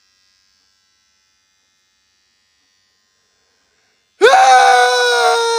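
Near silence for about four seconds, then a sudden, loud, steady buzzing squeal with a slightly falling pitch: air rushing out through a stretched balloon neck.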